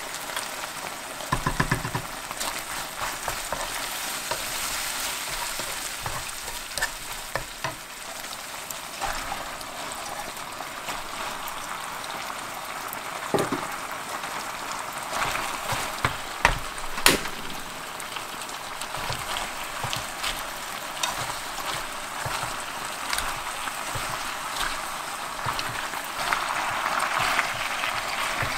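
Chicken in black bean sauce sizzling in a frying pan, with lettuce stir-fried in partway through. A steady frying hiss with a few sharp knocks around the middle.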